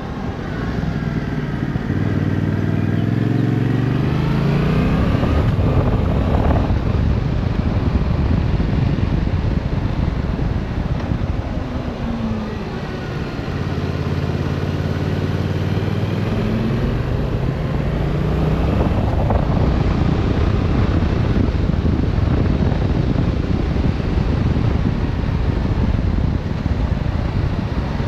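Yamaha Tracer 7's 689 cc parallel-twin engine pulling under acceleration, its revs climbing twice with a drop in between, over a steady rush of wind noise.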